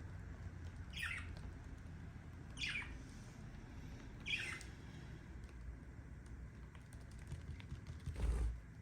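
Budgerigar giving three short chirp calls, each falling in pitch, about a second and a half apart. A dull low bump follows near the end.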